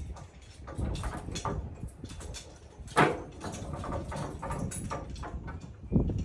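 Draft horses in harness moving about: irregular clatter of hooves and harness, with a sharp loud sound about three seconds in and another near the end.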